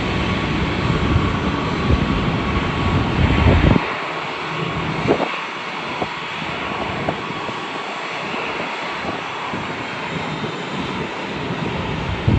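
Jet airliner engine noise with a steady high whine over a loud low rumble; the rumble cuts off suddenly about four seconds in, leaving a quieter, even engine noise with a few faint clicks.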